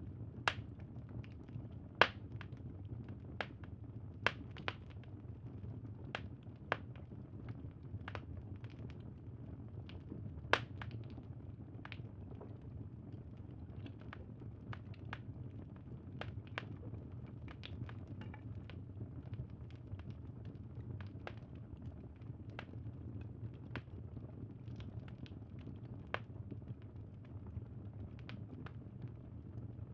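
Crackling wood fire: irregular sharp pops and snaps, a few of them louder (about two seconds in and around ten seconds in), over a steady low rumble of the burning.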